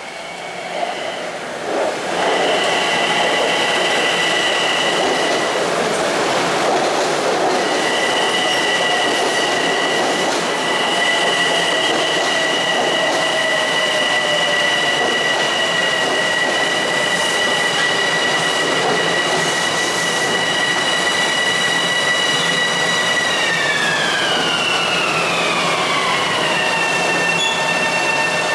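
LIRR M7 electric multiple-unit train pulling into the station and braking, its rumble of wheels on rail growing loud over the first couple of seconds. A steady high-pitched whine runs under it and drops in pitch near the end as the train slows almost to a stop.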